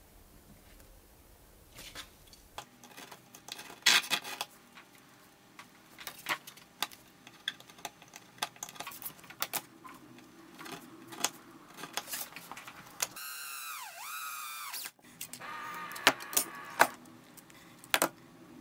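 Irregular clicks, taps and light scraping of small metal hand tools and thin copper sheet being handled and marked out on a wooden table, with a dense flurry of clicks about four seconds in. A brief whine dips in pitch and comes back up about two-thirds of the way through.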